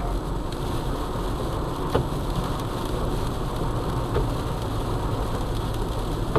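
Steady road and engine rumble inside a car's cabin on a highway, with heavy ice sleet hitting the car. A couple of short sharp clicks come about two and four seconds in.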